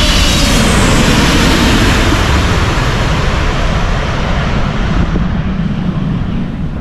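Jet airliner passing low overhead on its landing approach. Its loud engine roar slowly dies away as it moves off, the hiss at the top fading first near the end.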